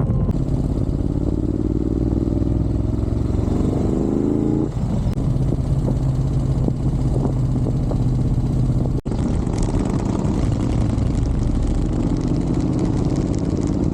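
Motorcycle being ridden: the engine rises in pitch as it accelerates, drops suddenly at a gear change about five seconds in, then runs steadily. The sound cuts out for an instant about nine seconds in.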